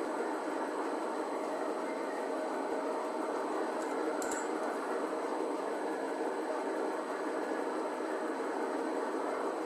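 6P10 milling machine running steadily, its motor and gearbox giving an even mechanical drone, with a brief click about four seconds in.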